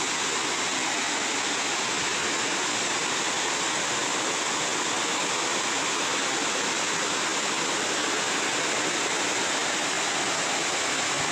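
A tall waterfall pouring down, giving a steady, dense rush of falling water with no let-up.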